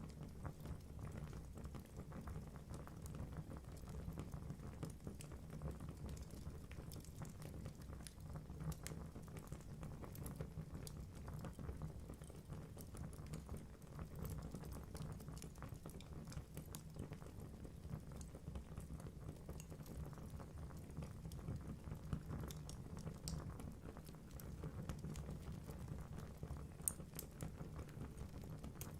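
Wood fire burning in a fireplace: a soft low rumble of flames with light crackling and occasional sharper pops from the logs, the loudest few near the end.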